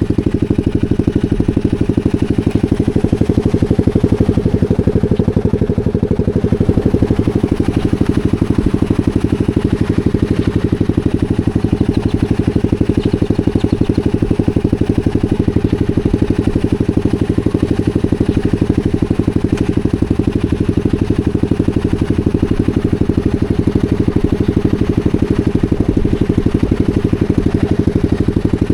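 250 cc supermoto motorcycle engine running at a steady speed, a fast even pulsing with no revving.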